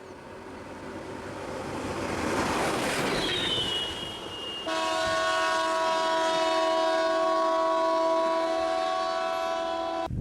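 A vehicle's rushing noise swells up as it comes close, then a loud horn sounds a steady chord of several tones for about five seconds and cuts off suddenly.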